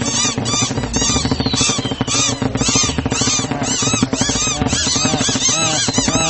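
A flock of small cartoon birds chattering in rapid, overlapping chirps, several a second, over a low rhythmic music bed.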